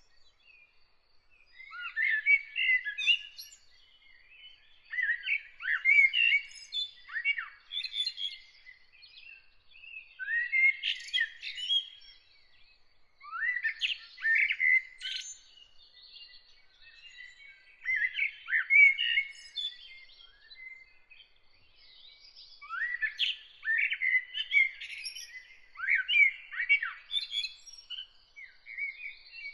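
A songbird singing a series of short, varied warbled phrases, one every two to four seconds with short pauses between, over a faint, steady, high-pitched rapid ticking trill.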